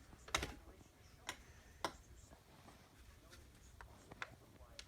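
About six sharp taps or clicks at irregular intervals, the first the loudest.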